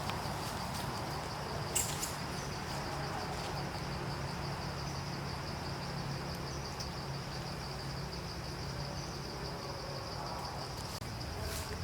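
Insects trilling steadily, a fast pulsing high note over a steady low hum, with one sharp click about two seconds in.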